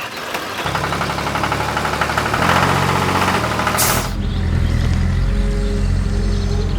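Engine running steadily, its low hum shifting in pitch twice, with a loud hiss over it that cuts off suddenly about four seconds in.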